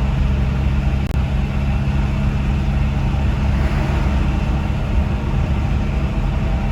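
Engine of a 1988 Volkswagen T3 Transporter Synchro running loud and steady, its exhaust blowing out through a broken exhaust pipe.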